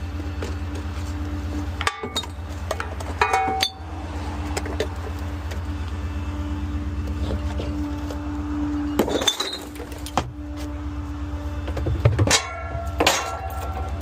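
A small rear-loader garbage truck's engine running steadily, with sharp clinks and clanks about two, three and a half and nine seconds in, and a louder cluster of them near the end.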